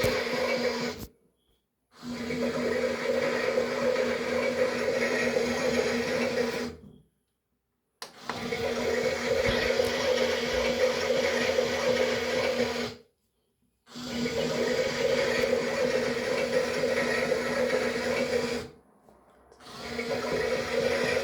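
Toy washing machine's small electric motor running with water churning in the drum, in spells of about five seconds broken by short silent gaps.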